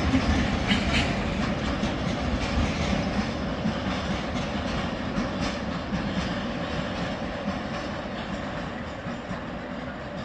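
Freight train of tank wagons rolling past, a steady rumble of wheels on rail that gradually fades.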